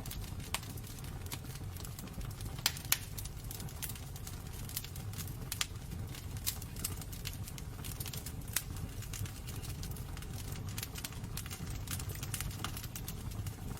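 Wood fire burning in a fireplace: irregular sharp crackles and pops, a few louder than the rest, over a steady low rumble.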